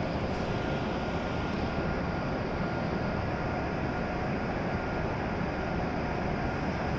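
W7 series Shinkansen train at the platform, a steady rushing hum from its running equipment, with a faint high whine that fades out about four seconds in.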